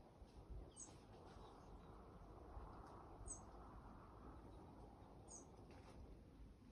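Faint, very high, brief bird chirp repeated three times about two seconds apart over a near-silent background.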